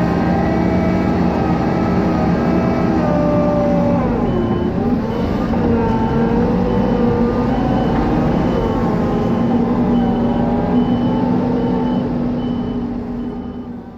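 Diesel engine of heavy farm machinery running steadily, its revs dipping and rising again about four seconds in. From about five seconds in a reversing alarm beeps at an even pace, about once every second. The sound fades out near the end.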